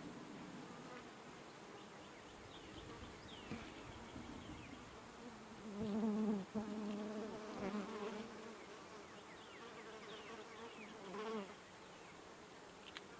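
Honeybees buzzing around an open Langstroth hive during a frame inspection. The buzzing swells loudly about six seconds in, as if a bee is close by, and again briefly near eleven seconds.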